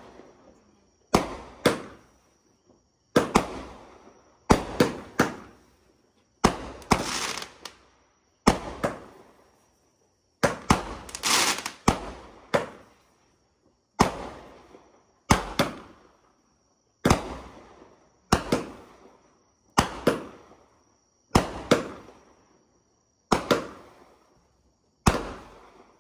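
Consumer fireworks cake (multi-shot battery) firing a long run of shots, a sharp bang about every second or so, sometimes two in quick succession, each trailing off in an echoing tail. A couple of shots leave a longer crackling tail.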